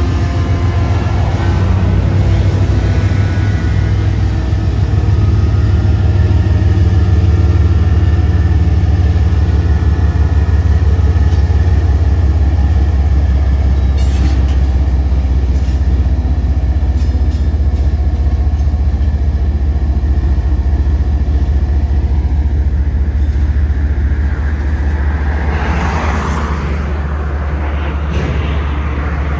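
Union Pacific diesel locomotives passing close by, their engines a loud, deep, steady drone. Near the end a rushing swell rises and fades as the freight cars roll by.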